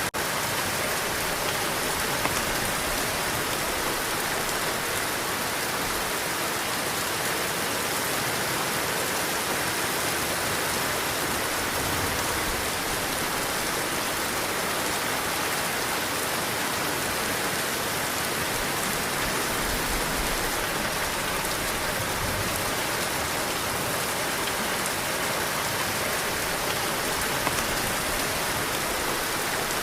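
Heavy rain falling steadily, a dense, even hiss of many drops with no letup. There is a split-second dropout at the very start.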